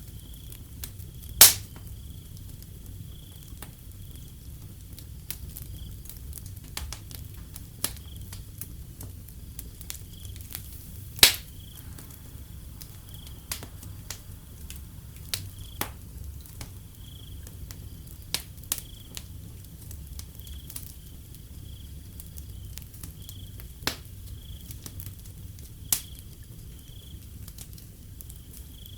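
Wood fire crackling with irregular sharp pops, two of them much louder, about a second in and about eleven seconds in. Crickets chirp steadily throughout, over a low rumble.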